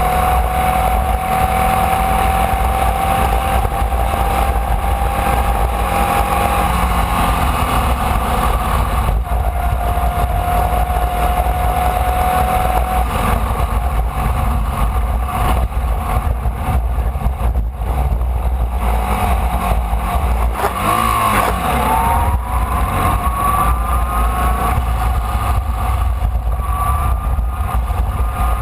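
Formula Vee race car's air-cooled Volkswagen flat-four at racing speed, heard on board over heavy low wind rumble. Its pitch climbs slowly under acceleration, drops sharply about two-thirds of the way through as the car brakes and downshifts, then climbs again.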